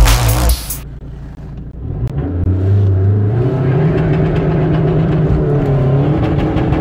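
Music stops within the first second, then an Opel Corsa's 1.7 DTI four-cylinder turbodiesel is heard from inside the cabin while driving. Its pitch steps up about three seconds in and then holds steady.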